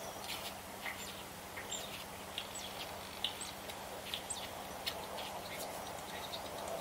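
Small birds chirping in short, scattered calls over a faint steady hum.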